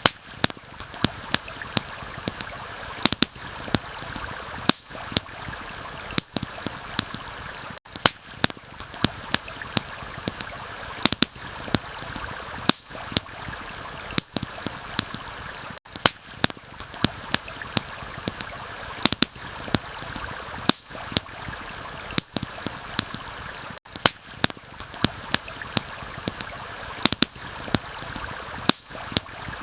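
Campfire crackling, with frequent sharp pops and snaps, over the steady rushing of a stream. The whole mix dips briefly about every eight seconds where the ambience loop restarts.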